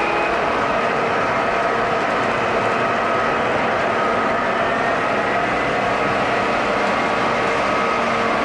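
Model train running on its track: a steady rolling noise with a few faint steady tones over it.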